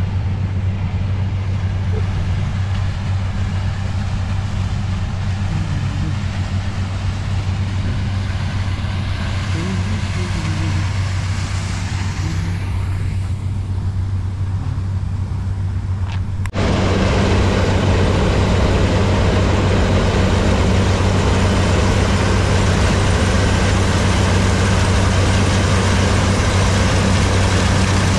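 Diesel engine of farm harvest machinery running steadily with a low hum. About sixteen seconds in, the sound jumps abruptly to a louder, fuller running noise.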